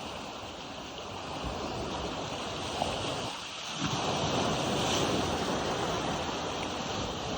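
Steady rushing of wind buffeting the microphone over surf. The low rumble drops out briefly about three and a half seconds in.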